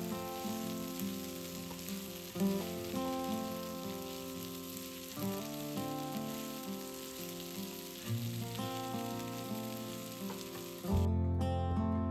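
Food sizzling in a frying pan, an even hiss that cuts off about eleven seconds in, under background acoustic guitar music.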